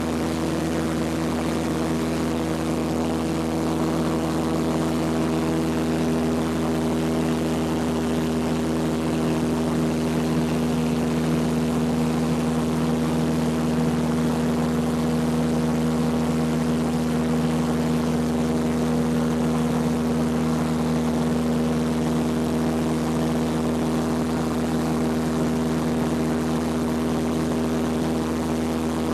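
Cessna 172P's four-cylinder Lycoming engine and propeller running at a steady pitch and level.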